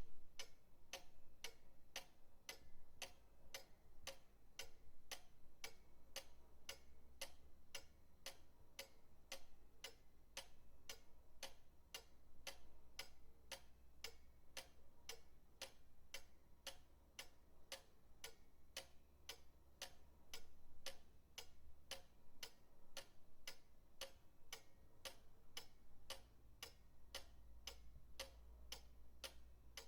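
Pendulum clock ticking steadily and evenly, about two sharp ticks a second.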